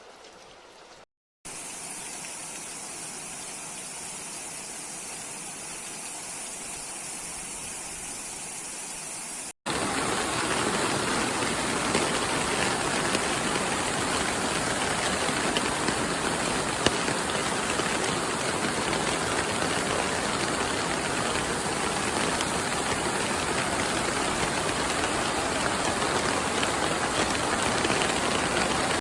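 Steady noise of heavy rain and running floodwater. It drops briefly to silence about a second in, then returns as an even rush, and becomes louder and fuller after a cut near ten seconds in.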